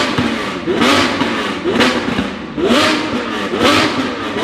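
A car engine being revved in short repeated throttle blips, about one a second, the pitch rising and falling with each blip.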